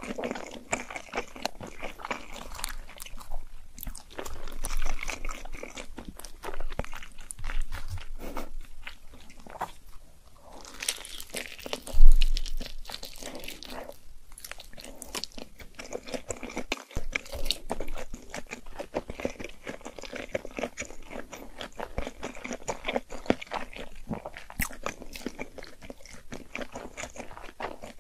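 Close-miked eating sounds: wet, sticky chewing and biting of sauce-coated noodle wraps, with many small clicks and smacks. There is one loud thump about twelve seconds in.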